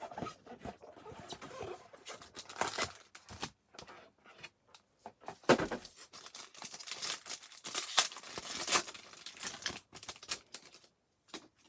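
A trading-card pack being opened by hand: the wrapper tears and crinkles in irregular bursts, and the cards are handled.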